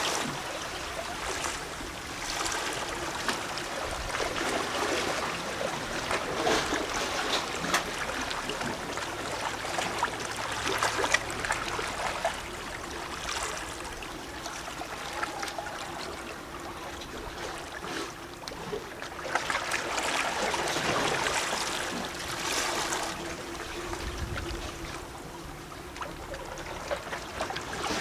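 Small sea waves lapping against shore rocks, with sloshing, plopping and gurgling as water runs in and out among the stones. The wash swells and ebbs in uneven surges, a little louder about two-thirds of the way through.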